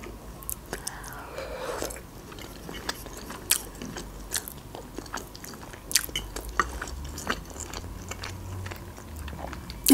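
Close-miked chewing and mouth sounds of someone eating soft casserole, with scattered small clicks and taps of a metal fork in a glass bowl.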